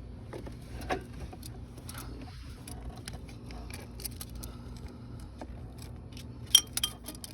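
Scattered light metallic clicks and scrapes of hand tools and small metal parts being handled, with a sharper run of clicks near the end, over a faint steady low hum.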